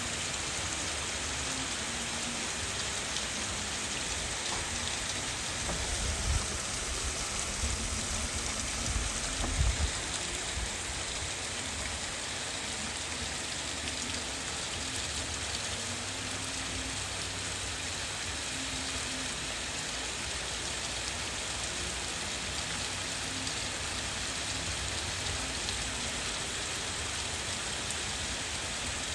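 Steady heavy rain falling during a thunderstorm, an even hiss of drops. There are a few brief low rumbles between about six and ten seconds in.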